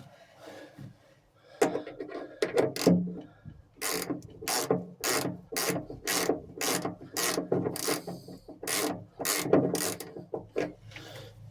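Socket ratchet clicking in a steady run of strokes, about two a second, as a hose clamp's screw is done up.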